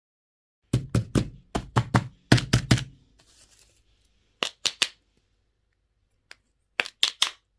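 Hard objects knocking and tapping against each other in quick runs: about ten sharp knocks during the first two seconds, then a group of three, then a group of four near the end.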